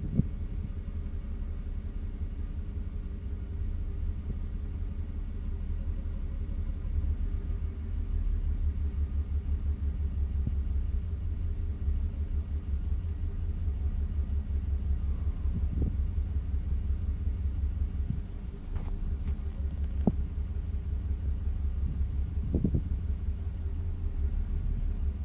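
BMW E92 325i straight-six engine idling with a rapidly pulsing low rumble, broken by a few sharp ticks. The engine is logging a combustion misfire and vibrating, which the owner suspects is caused by an air leak.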